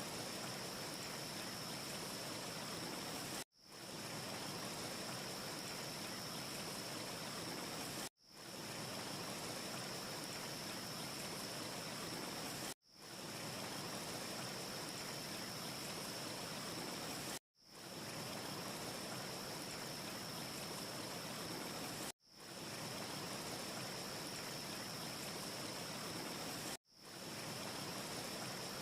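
Steady rushing ambience noise with a faint high whistle through it. It is a short loop: it cuts out abruptly six times, about every four and a half seconds, and fades back in after each gap.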